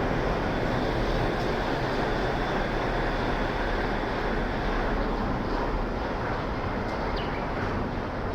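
Shonan Monorail suspended monorail car running on its rubber tyres: a steady rumble that eases slightly near the end.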